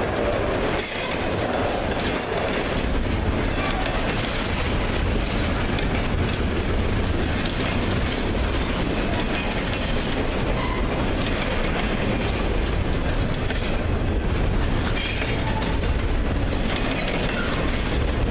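Double-stack intermodal freight train rolling past, its container well cars making a steady noise of steel wheels running on the rails.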